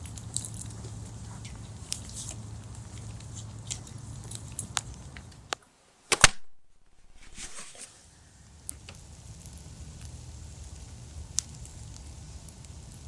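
Low steady background hum with scattered light clicks. About six seconds in the sound drops out briefly, then a sharp loud click is followed by a short whoosh before the hum returns.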